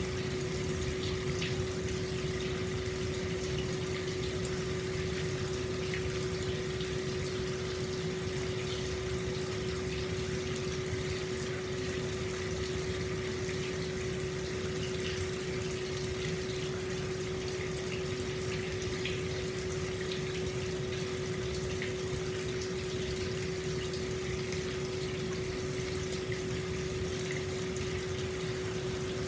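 Hot-spring water pouring steadily from a spout into an open-air bath, with small splashes and drips. A steady low hum runs under it.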